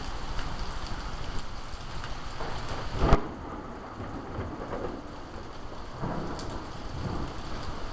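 Steady heavy rain falling, with a sudden sharp crack of a close thunderclap about three seconds in.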